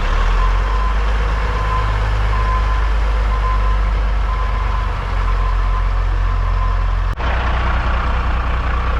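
Heavy diesel truck engine running at low revs while a reverse alarm beeps in a steady series as the truck backs up. The beeping stops about six seconds in, and the engine sound changes abruptly about seven seconds in.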